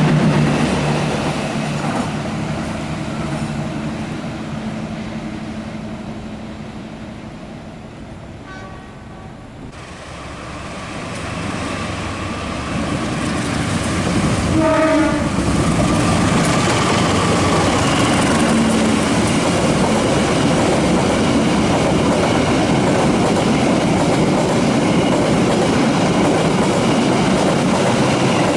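A passing train fades away, then another train comes up and runs past close by with a steady loud rumble of wheels on the rails. A train horn sounds briefly about halfway, just as the second train arrives.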